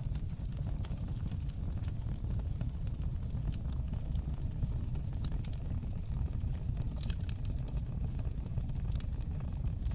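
Wood fire crackling in a fireplace: a steady low rumble of burning with scattered sharp pops and snaps, a cluster of them about seven seconds in.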